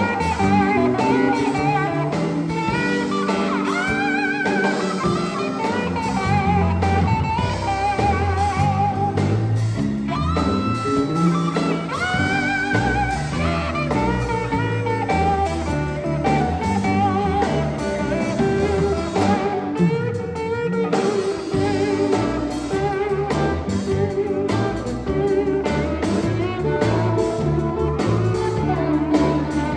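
Live sacred steel gospel band playing: an electric steel guitar plays sliding, wavering lead lines over bass and drums.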